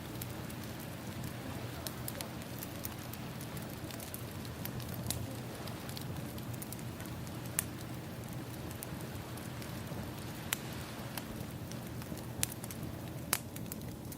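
Campfire-and-sea ambience: firewood crackling with several sharp pops, the loudest in the second half, over a steady wash of ocean waves.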